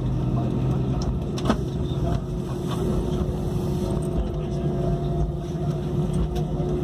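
Steady cabin drone inside an Airbus A320 during pushback: a low hum with a couple of faint steady tones above it. A single sharp click about a second and a half in.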